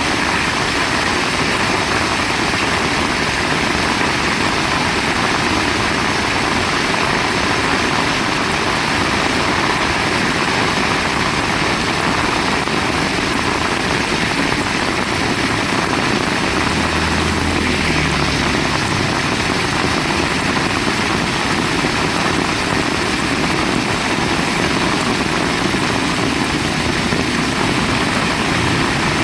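Heavy rain pouring steadily, a dense, even hiss. A brief low rumble comes through it about two-thirds of the way in.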